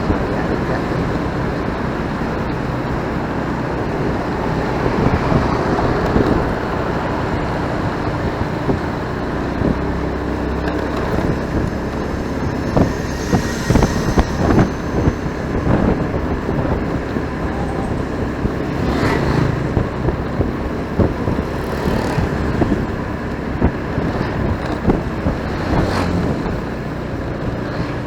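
Ride on a motorcycle through city traffic heard from the bike: steady engine and road noise with other vehicles around, and a few short sharp knocks in the second half.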